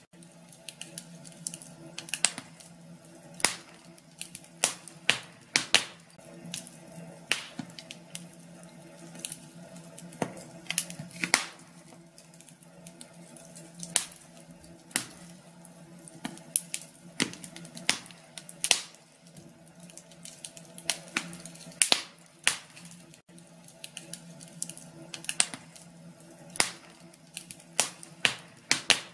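Wood fire in a fireplace crackling: irregular sharp pops and snaps, a few every couple of seconds, over a faint steady hum.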